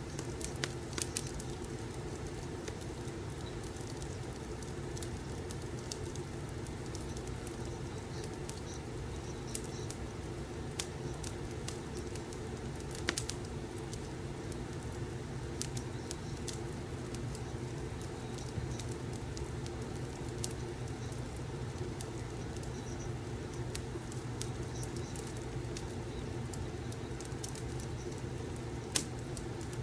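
Crackling wood fire: irregular sharp pops and snaps scattered throughout, over a steady low hum.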